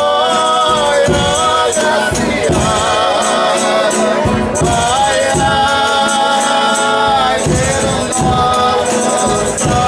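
Folia de Reis song: several voices holding long notes in harmony over steady tambourine jingles and regular low percussion strikes.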